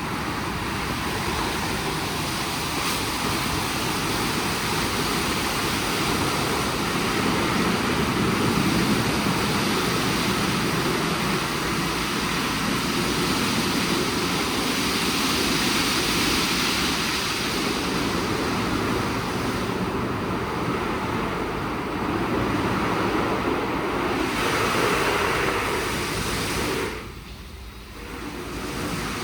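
WashTec SoftCare² Pro rollover car wash running through its programme: a steady, loud rush of machinery with no clear rhythm. It drops away briefly about 27 seconds in, then picks up again.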